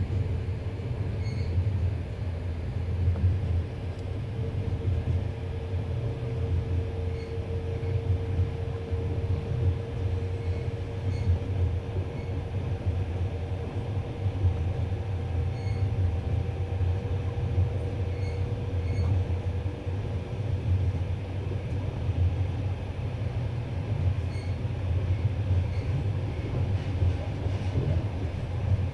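Passenger train carriage running along the track, heard from its window: a steady low rumble of the wheels on the rails. A faint steady whine rises out of it for a stretch in the middle, and light clicks come now and then.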